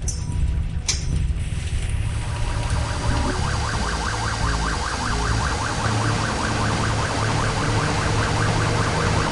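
Cartoon vehicle sound effect: a motor vehicle running, with a fast, repeating warbling tone over it like an alarm or siren, after two sharp clicks at the start.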